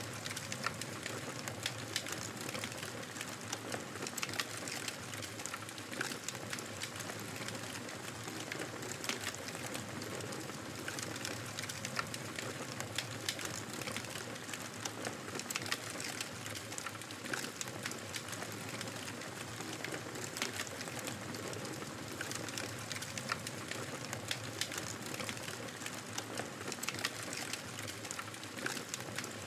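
Wood fire crackling steadily: a constant low hiss and rumble of flame with many small sharp pops and snaps scattered at irregular intervals.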